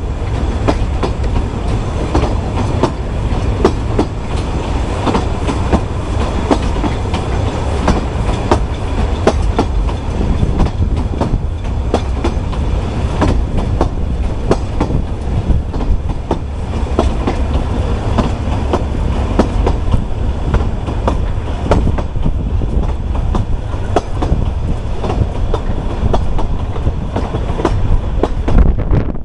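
Narrow-gauge passenger carriage running along the track, heard from on board: a steady low rumble with the clickety-clack of the wheels over the rail joints.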